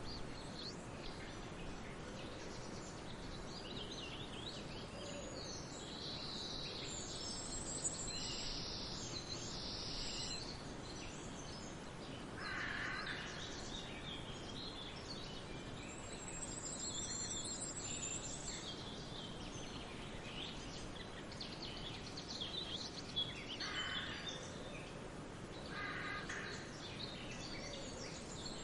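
Forest birds calling and singing over a steady rushing background noise, with many high chirps and trills throughout and a few lower, harsher calls about twelve seconds in and again twice near the end.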